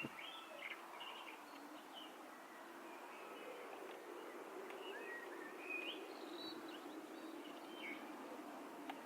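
Birds chirping with scattered short calls, over faint outdoor background noise and a low steady hum.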